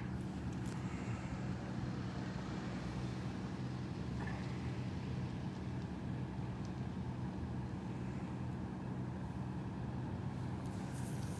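Steady low engine hum with no change in pitch, from vehicles or aircraft idling close by.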